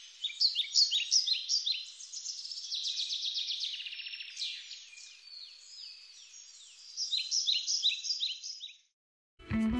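Several birds singing and calling: dense, high-pitched chirps and quick downward-sweeping notes, repeated over and over, which stop about nine seconds in. Guitar music starts just before the end.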